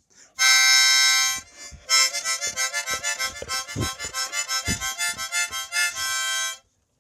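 Harmonica played in chords: one held chord for about a second, then a quick run of short pulsed chords, about five a second, ending on a held chord that stops suddenly near the end.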